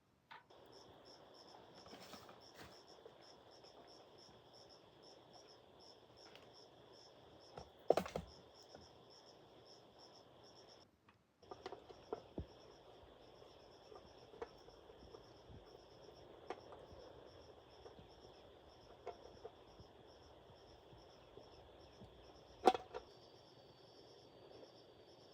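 Insects chirping steadily: a high, even trill with a faster, evenly pulsing chirp above it. Scattered faint clicks and two sharp knocks, about eight seconds in and near the end, stand out over it.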